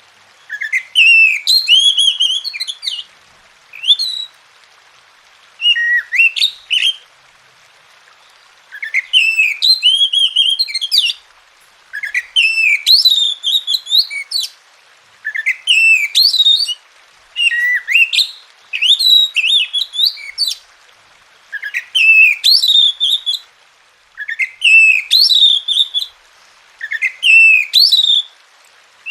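Oriental magpie-robin (kacer) song: about a dozen short phrases of rapid rising and falling notes, each lasting one to two seconds, with brief pauses between them. It is a recording played to stimulate other magpie-robins to sing.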